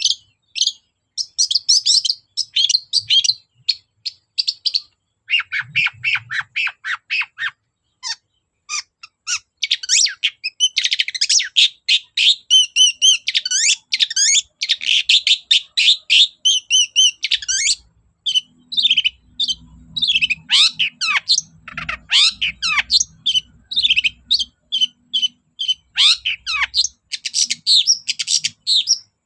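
Long-tailed shrike (cendet) singing a fast, varied song of quick chirps, squeaky gliding notes and harsh squawks, in runs broken by short pauses.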